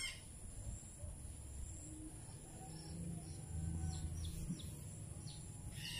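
Faint background birds chirping, a few short high chirps in the second half, over a low steady rumble.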